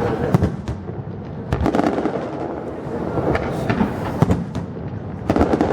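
Fireworks bursting: a dense run of irregular bangs and crackles over a continuous rumble, with the sharpest bangs near the start and about four seconds in.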